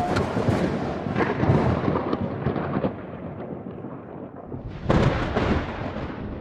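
Thunder: a sudden loud clap that trails off into a long rumble, then a second clap about five seconds in, also fading.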